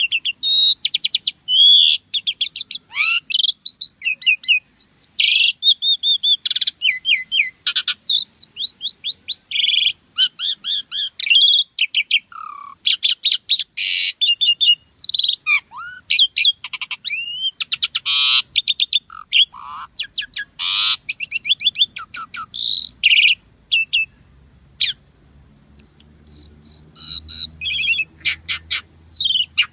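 Asian pied starling (jalak suren) in full song: a long, varied run of whistles, sweeping notes, chatters and rapid clicking phrases, broken by a short pause near the end.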